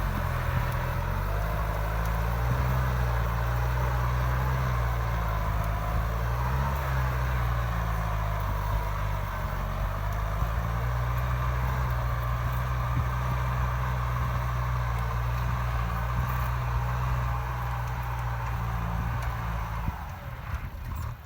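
Kubota M6240SUH tractor's diesel engine running steadily, with slight dips and rises in pitch. The sound drops off sharply near the end.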